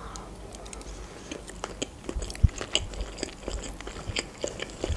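Close-up chewing of a mouthful of fusilli pasta in cream sauce, with many small wet mouth clicks and smacks.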